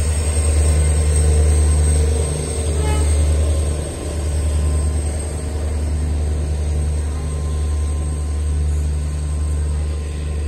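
Passenger train coaches rolling past at close range: a steady low rumble of wheels on rails, with a brief high-pitched note about three seconds in.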